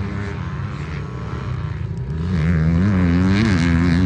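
Small two-stroke engine of a Yamaha PW50 minibike running. About two seconds in it gets louder, its pitch rising and falling as the throttle is worked.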